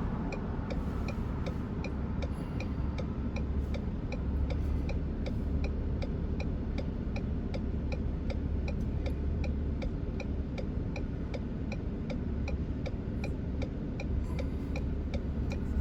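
A car's turn-signal or hazard-light flasher clicking steadily, about two clicks a second, heard inside the cabin over the low hum of the idling engine.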